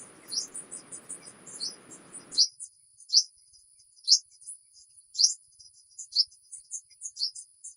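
Small birds chirping in short high notes about once a second, over a steady high-pitched insect drone. A faint low hiss cuts off suddenly about two and a half seconds in.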